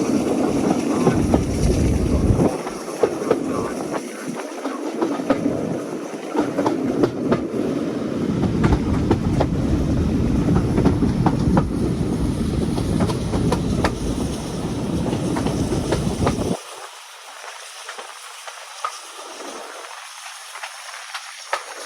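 Heritage steam train running along the track, with a steady low rumble and rapid clicking of wheels over the rail joints. About sixteen seconds in, the rumble cuts off suddenly, leaving a quieter hiss.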